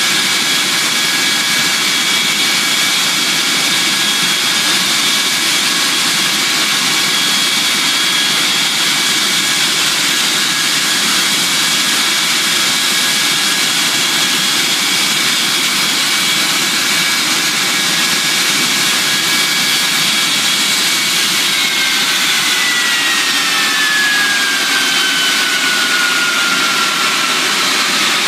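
Ilyushin Il-86's Kuznetsov NK-86 turbofan engines running with a loud steady rush and high whine. About twenty seconds in, the whine falls in pitch.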